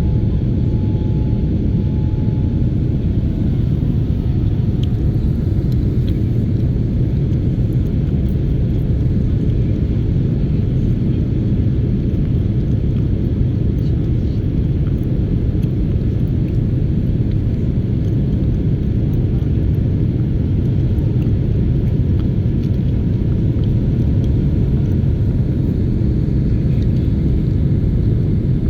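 Turkish Airlines jet airliner during takeoff: a loud, steady low rumble of engines and airframe that holds unchanged throughout.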